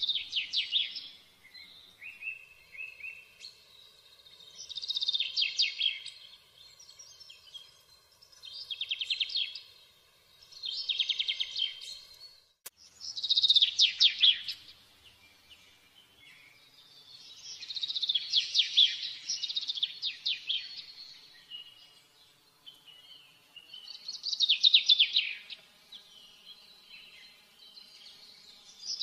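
Songbird singing: short phrases of rapid, high chirps and trills repeated every few seconds, with short pauses between them.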